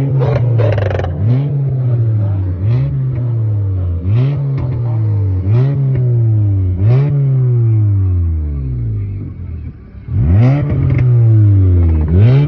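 A car engine being revved in repeated throttle blips, about one every second and a half. Each blip rises sharply and falls away slowly, with short crackly bursts at the top of most revs. About nine seconds in it sinks almost to idle, then is blipped twice more.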